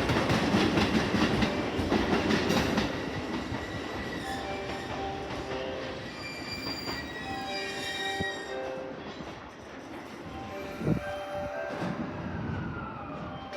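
Electric commuter train on the adjacent track: wheels clattering rapidly over the rails for the first few seconds, then quieter running with several steady high-pitched wheel and brake squeals, and a short knock near the end.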